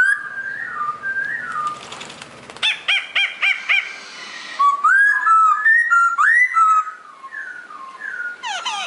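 A songbird singing: a run of varied, wavering whistled phrases, with a quick series of repeated notes about three seconds in and fast sweeping notes near the end.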